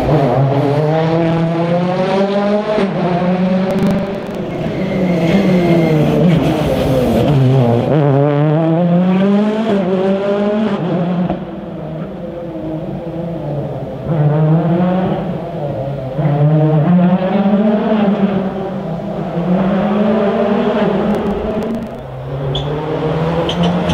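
Rally car's engine revving hard through a run of bends, its note climbing through each gear and dropping on the lift and braking, again and again.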